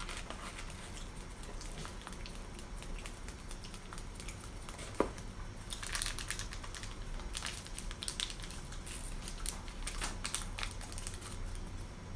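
Close-up eating sounds: a person chewing barbecue, with scattered wet clicks and crinkles. There is one sharp click about five seconds in, and the clicks grow denser from about six seconds on.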